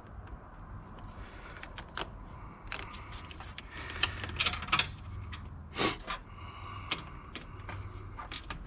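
Scattered light metallic clicks and taps of hand tools and small screws being handled, as a radiator fan shroud is screwed back in place, with a few sharper clicks here and there.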